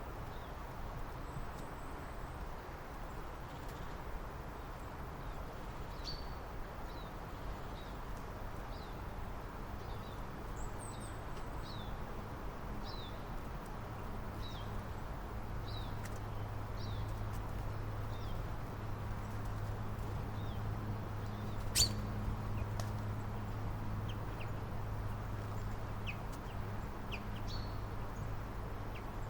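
Small birds giving short, high, falling chirps, about one a second for a stretch and then scattered, over a steady low hum that grows louder partway through. One sharp click about 22 seconds in.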